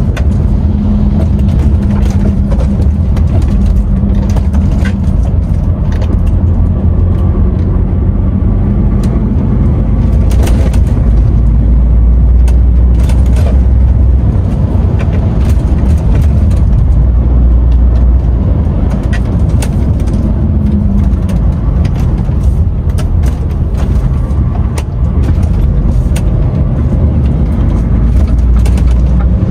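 DAF XF 510 truck's six-cylinder diesel and road noise heard from inside the cab while driving: a steady low drone with scattered short clicks and rattles.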